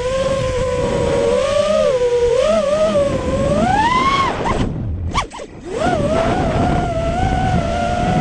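Quadcopter racing drone's brushless motors (Emax 2205 2300kv) spinning DALProp Cyclone props in flight, a steady high whine that wavers with the throttle. The pitch rises sharply a little past halfway, then nearly cuts out for about a second as the throttle is chopped, before spinning back up to a steady, higher whine.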